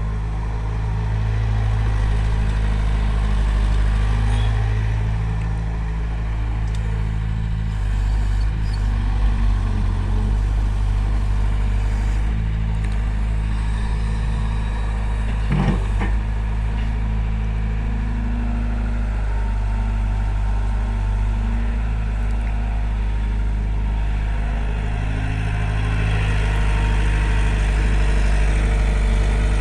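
Diesel engine of heavy farm or construction machinery running steadily, its load rising and easing a little, with one short sharp knock about halfway through.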